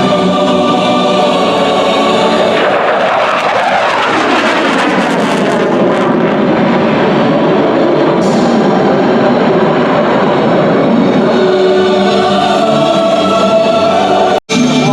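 F-15 Eagle jet passing by, its twin-engine roar swelling over background music for several seconds with a falling pitch, then fading as the music comes back through. The audio drops out for an instant near the end.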